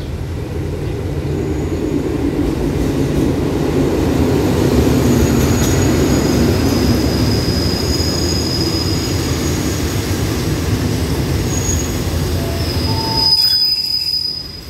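Diesel-hauled passenger train rolling into the station alongside the platform: a steady low rumble of the carriages running past, with high-pitched wheel squeal on and off. The squeal is loudest just before the rumble drops away near the end as the train slows to a stop.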